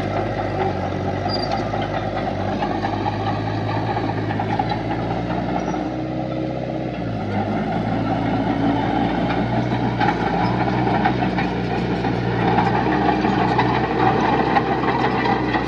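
Heavy diesel engine of an earthmoving machine running steadily, its engine speed shifting briefly partway through.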